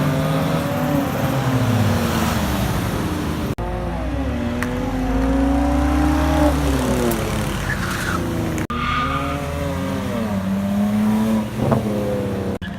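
Car engines revving and accelerating hard, their pitch climbing and dropping. The sound comes in separate stretches that cut off abruptly about three and a half and nine seconds in.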